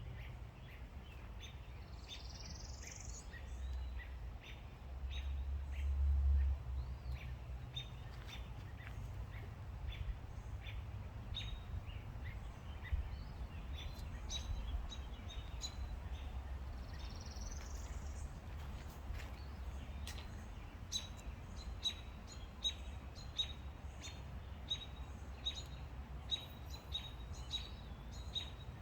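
Birds chirping with short, repeated calls, two higher rising calls, and denser regular chirping in the last third, over a steady low rumble that swells about six seconds in.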